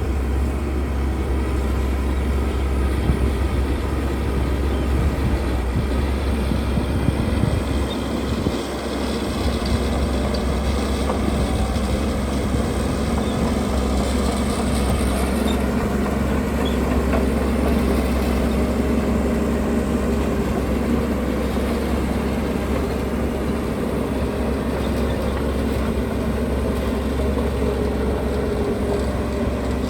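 Diesel engines of heavy earthmoving machinery, bulldozer and dump trucks, running steadily with a low drone that dips briefly about eight seconds in.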